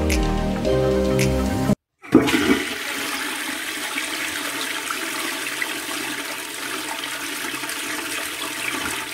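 Music briefly, cut off abruptly, then a steady rushing of water starting suddenly about two seconds in and running for about seven seconds.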